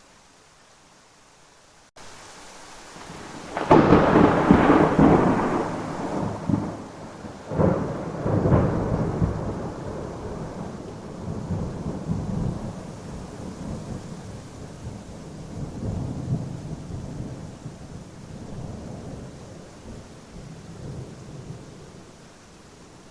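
Thunder in a rainstorm: after a couple of seconds of faint hiss the sound steps up suddenly, a loud thunderclap breaks about four seconds in, with further cracks around eight seconds, then rolls on in a long rumble that slowly fades under steady rain.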